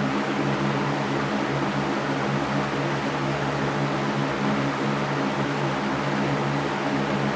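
Electric fan running steadily: an even rush of air with a constant low hum from the motor underneath.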